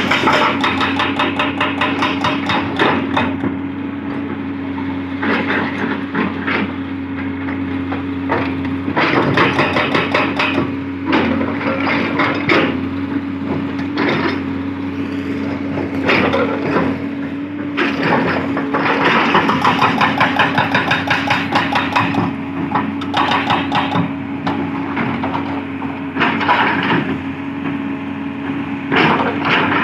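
Hitachi 200-class excavator's hydraulic breaker hammer pounding hard black rock in several bursts of rapid, evenly spaced blows. The excavator's diesel engine runs steadily underneath.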